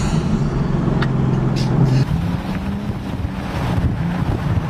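Car engine droning steadily at speed, heard from inside the car over road and wind noise; the engine note shifts in pitch about two seconds in.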